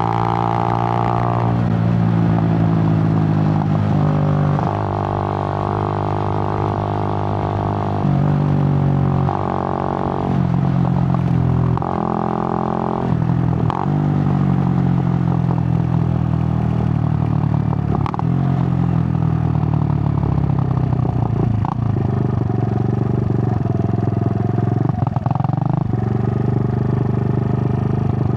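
Suzuki GN125's single-cylinder four-stroke engine running as the motorcycle is ridden. The engine note rises and drops back several times in the first half, then runs more steadily.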